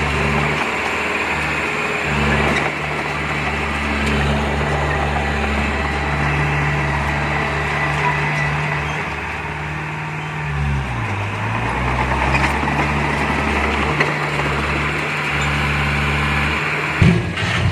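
Heavy diesel earthmoving engine running steadily. About ten seconds in, its pitch drops briefly and then recovers, as under load. Just before the end, a sudden louder low rumble starts.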